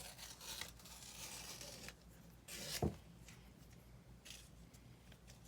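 Soft rustling and scraping, with a louder rustle ending in a dull thump nearly three seconds in.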